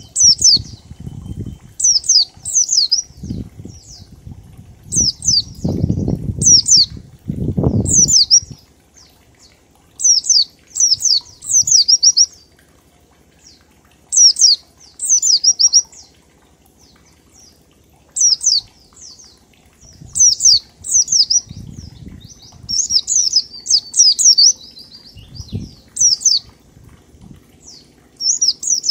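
Pleci (white-eye) singing its rapid 'ngalas' song: quick high downward-sweeping notes in tight groups of two to four, repeated in bursts with short pauses between. Low rustling thumps run under the song through the first eight seconds and again after about twenty seconds.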